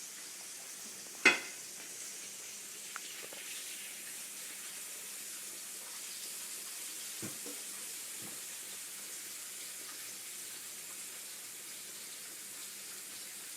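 Breaded squash frying in hot oil on a stovetop, a steady sizzle. A sharp clack about a second in, and a few faint knocks later.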